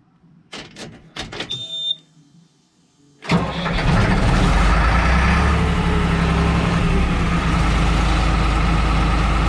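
A few faint clicks and a short high tone, then about three seconds in the skid steer's engine starts and settles into a steady run.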